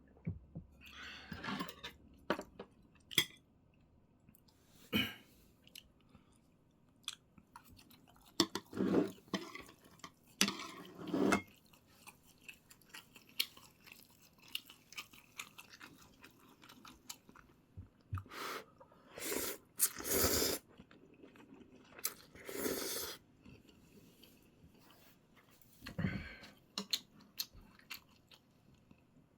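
Close-up eating sounds: a person chewing and crunching food, in irregular bursts with small clicks in between.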